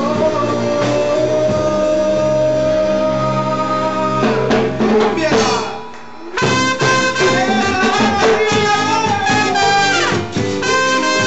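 Latin band music in an instrumental passage between verses: a long held note at first, a short drop about six seconds in, then the full band comes back in.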